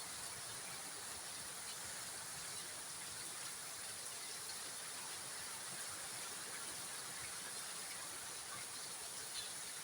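Steady hiss of rain in a storm, with a few faint drips or ticks near the end.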